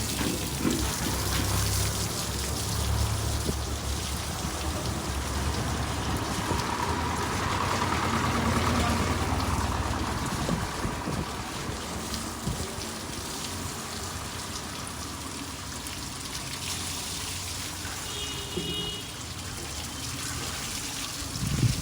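Swaraj 855 tractor's diesel engine running, its low rumble strong for about the first ten seconds and then fading, under a steady hiss.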